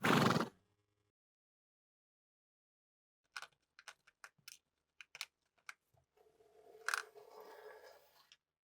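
A short loud rush of noise, then a run of sharp clicks and knocks, followed by about two seconds of scraping with one louder click in the middle: handling noises of small hard parts.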